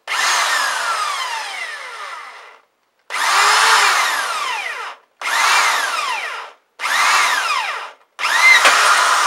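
Electric drill, set to plain drilling rather than hammer, boring an 8 mm hole through the steel end-cone plate of a Yamaha Dragstar 650 muffler. It runs in five short bursts with brief pauses between them to keep the bit from overheating. In each burst the motor's whine drops in pitch as the bit bites into the metal.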